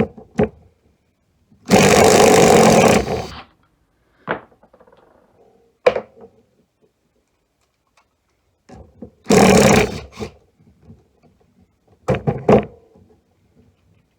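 Hart 20-volt cordless impact driver run in two bursts, the first about 2 s long near the start and the second about a second long in the middle. Single knocks and clacks of the tool being handled come in between.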